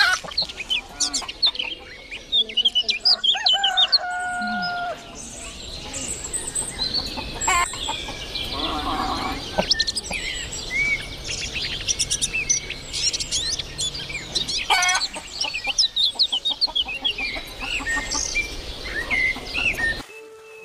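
Many small birds chirping, with a rooster crowing about three seconds in and chickens clucking.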